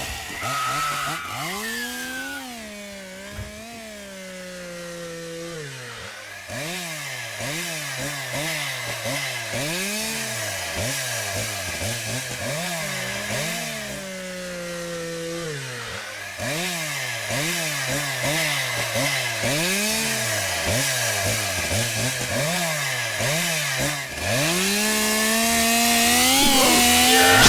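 Small two-stroke chainsaw engine revved over and over, its pitch rising and dropping about once a second, with a few longer stretches held at high revs.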